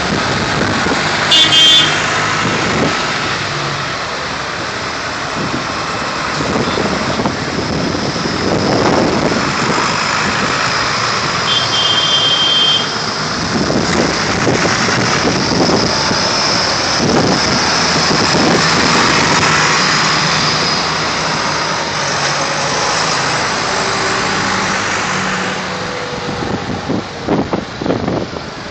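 Vintage tractor engines running as tractors drive past in a procession, with a horn tooting briefly twice, about a second in and again near the middle.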